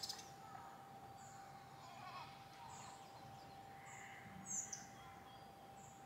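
Songbirds chirping faintly in the trees: scattered short, high calls, the loudest a quick chirp about four and a half seconds in.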